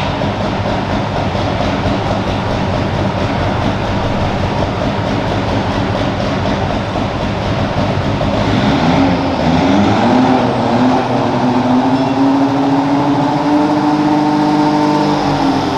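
Loud engine of a garden pulling tractor running hard. Its pitch rises about nine seconds in and then holds high.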